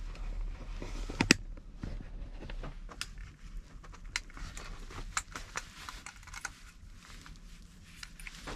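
Scattered raindrops tapping on the roof and body of a Honda Step Wagon, heard from inside the cabin: irregular light ticks of uneven strength, one sharper tap about a second in.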